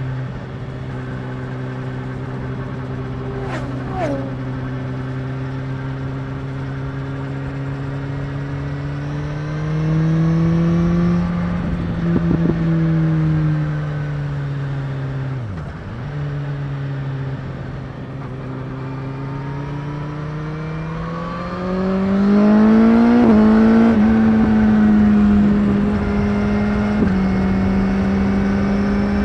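BMW S1000R's inline-four engine under way, heard from a recorder on the rider's back. The engine note holds steady, rises about a third of the way in, dips briefly in the middle, then climbs in a few quick steps about three-quarters through and holds at the higher pitch.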